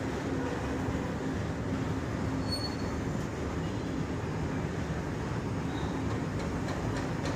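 Loaded coal wagons of an Indian Railways freight train rolling past: a steady rumble of steel wheels on rail. A few wheel clicks over rail joints come in near the end.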